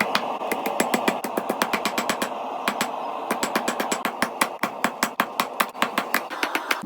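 Rapid hammer blows striking a steel hook on an anvil during forging, several sharp metallic strikes a second over a steady hiss.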